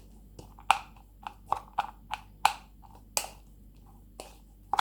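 A cat eating rice mixed with boiled chicken, chewing with a run of sharp, wet clicks and smacks, about two a second.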